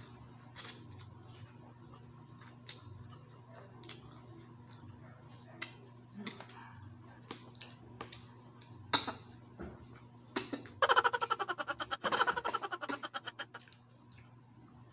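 Close-up eating sounds of pancit canton noodles: scattered wet clicks of chewing and chopsticks, then, about eleven seconds in, a loud, rapid fluttering slurp of noodles lasting about three seconds.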